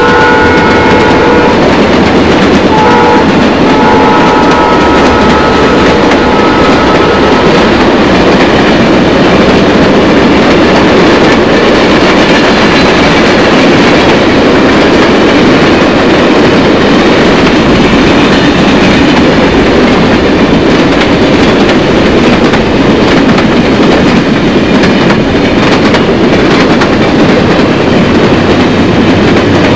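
A train passing close by, loud and steady. Its horn sounds a chord at the start, stops briefly, then sounds again for about five seconds.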